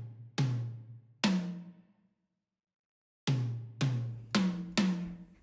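Deep drum-like hits, each with a sharp start and a short ringing tail: two hits, a pause of about a second and a half, then five more about half a second apart.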